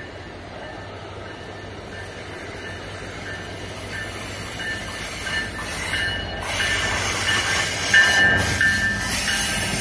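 Diesel-hauled BNSF freight train approaching, with an EMD SD60M in the locomotive consist. The locomotive rumble grows steadily louder as the train nears, and from about halfway a high, steady squeal of wheels on the curving track joins it.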